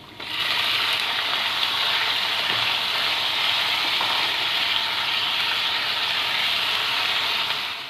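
Chicken pieces frying in hot oil in a pan: a steady, dense sizzling hiss that starts abruptly as the chicken goes in and holds even throughout.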